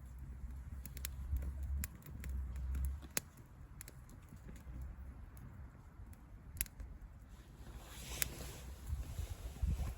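Low wind rumble on the microphone, with scattered light clicks and taps and a brief hissy swell near the end.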